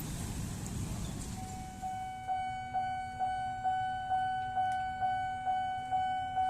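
Railway level-crossing warning bell of a modified Nippon crossing machine starting to ring about two seconds in, struck about twice a second, each strike ringing on a steady pitch. Traffic noise comes before it.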